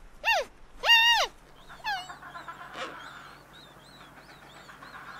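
Two short, high-pitched animal calls, each rising and then falling at the end, then faint repeated bird-like chirps over a low steady hum.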